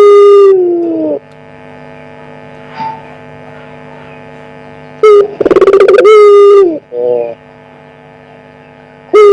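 Puter pelung dove cooing loudly: each call is a short note, a rolling pulsed note, then a long drawn-out note that slides down at the end, repeated about every five seconds. A steady electrical hum runs underneath.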